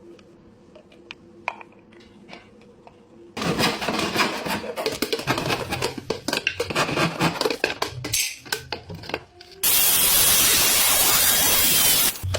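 Metal parts clinking and clattering as they are handled, with a few sharp clicks. About ten seconds in, a loud steady hiss starts.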